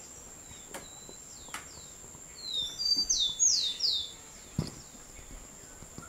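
A bird calls in a quick run of four or five falling chirps, starting about two seconds in, over a faint steady background hiss. A few faint knocks come before and after it.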